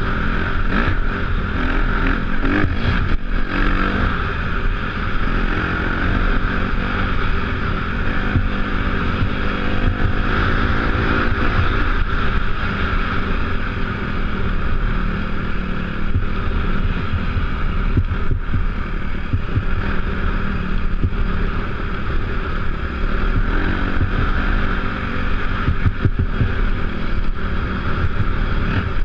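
Off-road motorbike engine running under way, its pitch rising and falling with the throttle, with wind noise on the microphone.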